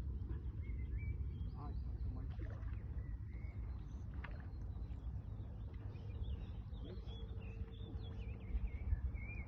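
Steady low rumbling outdoor noise at the water, with faint high chirps and a few light clicks scattered through.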